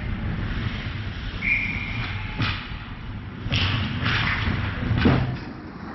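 Ice hockey play in an indoor rink: a steady rumble of skating, broken by several sharp knocks and thuds of sticks, puck and bodies against the boards, the loudest a little after five seconds in. A brief high tone sounds about a second and a half in.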